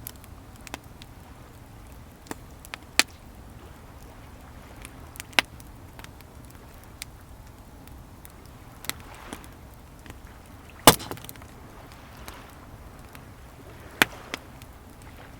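Wood fire crackling, with sharp single pops every second or two, the loudest about eleven seconds in, over a low steady wash of sea waves.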